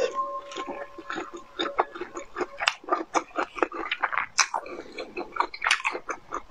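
Close-miked chewing, with a quick, irregular run of wet mouth clicks and smacks.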